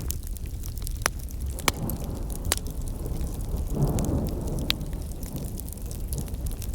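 Wood campfire crackling, with irregular sharp pops of burning firewood over a steady low rumble; a short swell of rushing noise rises and fades about four seconds in.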